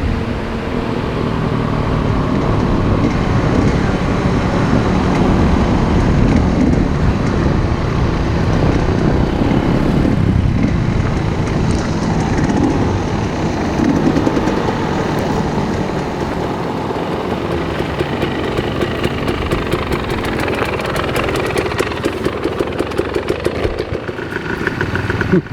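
Enduro motorcycle engines running close by, a loud, steady engine note that settles into a rapid, even pulsing near the end.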